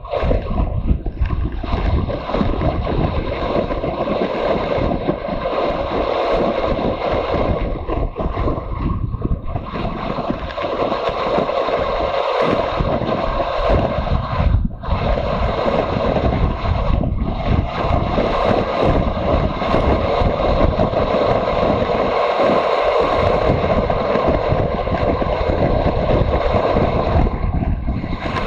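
Motorcycle on the move: wind rushing over the microphone over the engine's running, with a brief dip in the noise about halfway through.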